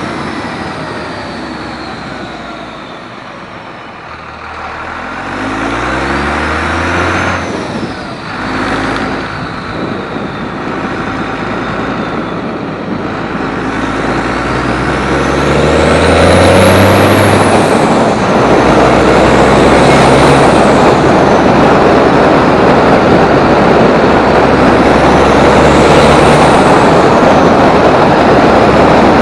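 1999 24-valve Cummins turbodiesel pulling hard, its engine note climbing in pitch as it revs up, with a high-pitched turbo whistle that rises and falls several times as the turbo spools up and back down.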